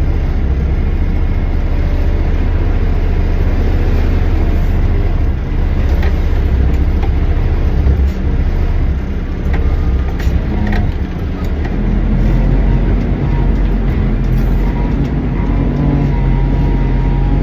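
Diesel engine of a front-load garbage truck running under way, heard from inside the cab as a steady heavy low rumble with road noise. A few light clicks or rattles sound here and there.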